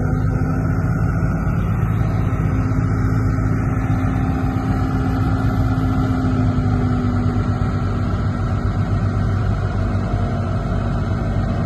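Heavy diesel engine of a Komatsu D58P crawler bulldozer running steadily, a constant low drone with no gaps.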